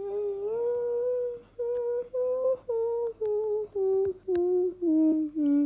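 A voice humming a tune with the mouth closed: one long note, then a run of about eight short separate notes that fall in pitch toward the end.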